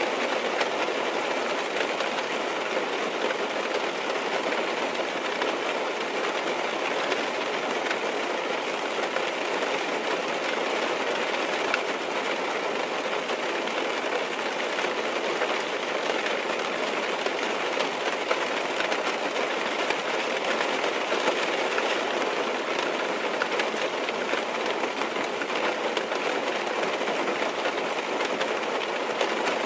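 Steady heavy rain falling on a car's roof and windows, heard from inside the car as a dense, even patter of many small drop ticks.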